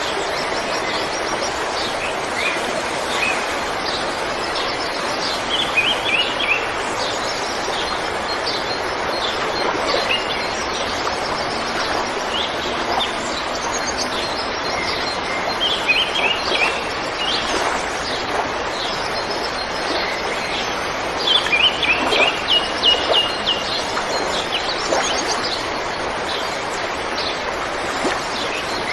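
A river flowing with a steady rush of water, and small birds chirping over it in short runs of quick, high repeated notes, several times.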